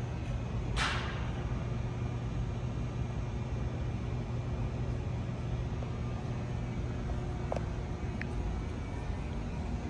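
Steady low rumble and hum of a busy car-show exhibition hall, with a short hissing burst about a second in and a faint click near the end.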